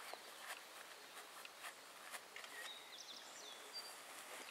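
Faint outdoor ambience with a bird giving a run of short, high chirps about halfway through, and a few soft clicks.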